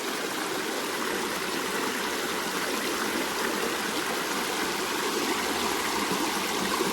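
Shallow brook water running over rocks, a steady rushing flow.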